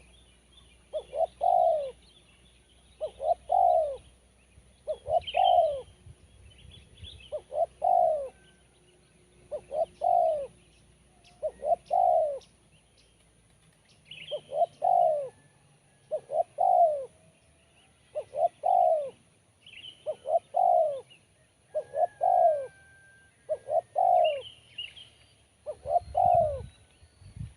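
Spotted dove (tekukur) cooing: a short phrase of a few notes, repeated over and over about every two seconds. Small birds chirp faintly in the background.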